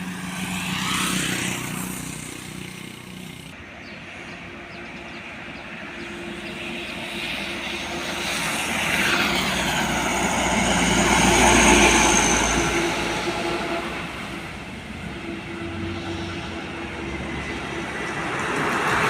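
Road traffic passing close by: engine and tyre noise swells and fades as vehicles go past, with a small pass about a second in and the loudest a little past halfway.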